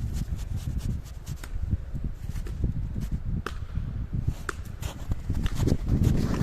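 Irregular footsteps with scattered crunches and clicks, over a low rumble of wind on the microphone.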